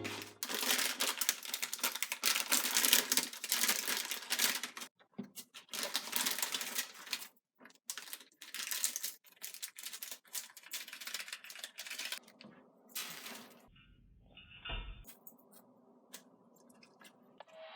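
Typing on a keyboard in quick runs of key clicks, with two short pauses. Near the end the typing stops and there is a brief rustle and a low bump.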